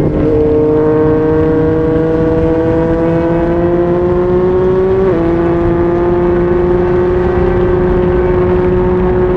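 2020 Yamaha MT-09's three-cylinder engine through a Yoshimura R55 slip-on exhaust, pulling through a gear with the revs climbing slowly, then an upshift about five seconds in drops the note before it settles at a steady cruise.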